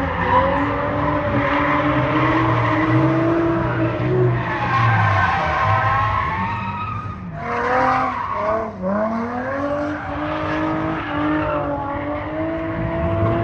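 A car drifting: its engine revs up and down at high revs as the tyres squeal and skid, with a brief lift off the throttle about halfway through before it revs up again.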